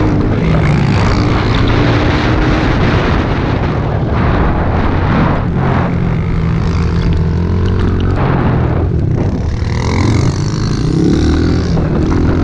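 Small single-cylinder pit bike engine running while being ridden, its pitch rising and falling a few times as the throttle changes.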